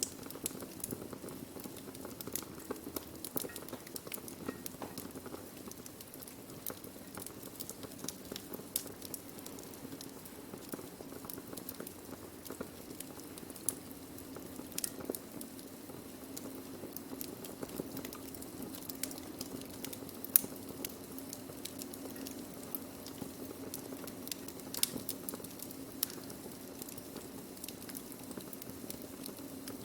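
Burning wood crackling, with a constant scatter of small snaps and sharper pops, the loudest about twenty and twenty-five seconds in, over a steady low background.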